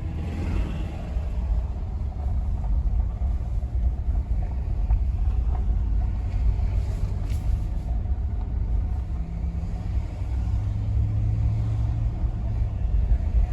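Steady low rumble of a motor vehicle running, with no sudden events.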